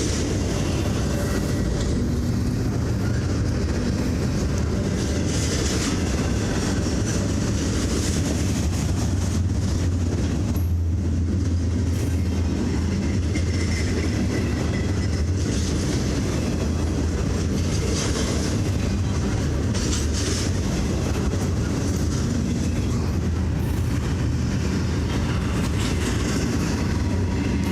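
Norfolk Southern train's cars rolling past close by: a steady rumble of wheels on rail, with brief louder clatters every few seconds.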